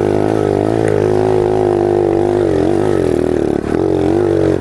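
Pit bike's small single-cylinder engine running at a steady riding speed. Its pitch wavers slightly with the throttle, easing off briefly about two and a half and three and a half seconds in.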